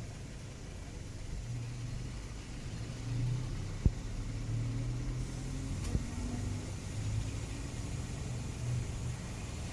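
Toyota Camry engine running with a low, steady rumble. Two sharp clicks come through, one about four seconds in and a fainter one about two seconds later.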